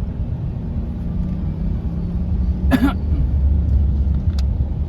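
Steady low road and engine rumble inside a moving car's cabin. A person coughs once, briefly, a little over halfway through.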